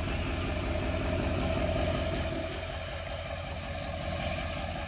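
A vehicle engine running steadily with a low rumble, easing to a quieter level about halfway through.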